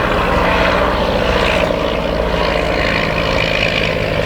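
De Havilland DH-51 biplane flying, its V8 engine and propeller running steadily.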